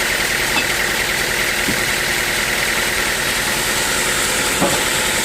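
Sawmill machinery running steadily, a constant machine drone with a high steady tone and a few faint knocks.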